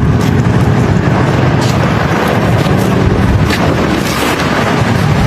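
Strong wind blowing hard across the microphone during a dust storm: a loud, steady rumbling rush with a few brief higher hisses.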